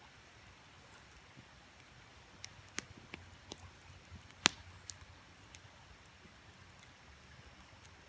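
Wood campfire crackling: a handful of sharp pops from about two and a half to five seconds in, the loudest near the middle, over a faint steady rush of creek water.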